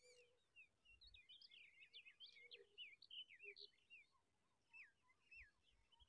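Faint twittering of small birds: rapid high chirps and short gliding notes, thickest in the middle, with a few lower notes near the end.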